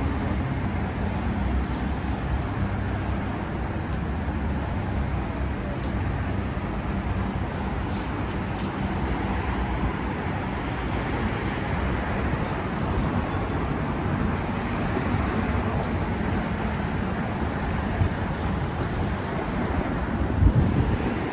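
Steady city street traffic noise from passing vehicles, strongest in a low rumble.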